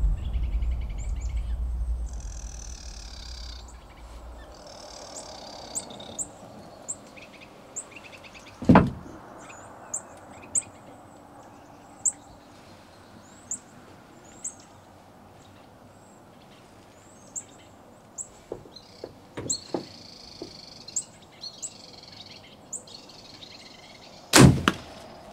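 Small birds chirping repeatedly in short high notes, with background music fading out over the first few seconds. Two sharp, loud thumps stand out, one about nine seconds in and one near the end.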